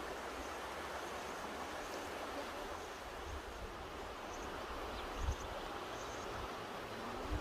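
Mountain river rushing steadily, a continuous even hiss of flowing water. A few brief low rumbles come through, about five seconds in and again near the end.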